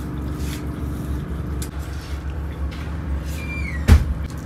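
Low, steady rumble of an idling Bangladesh Railway intercity train. Near the end there is a short falling squeal and then a single loud clunk.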